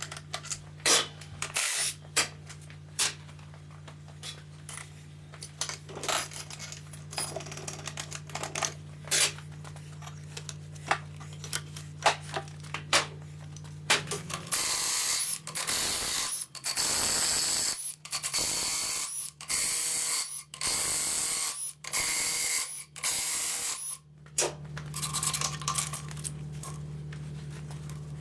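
Metal tools and engine parts clinking and clanking during engine teardown, over a steady low hum. About halfway through comes a run of about eight loud bursts of a compressed-air tool, each lasting a second or two.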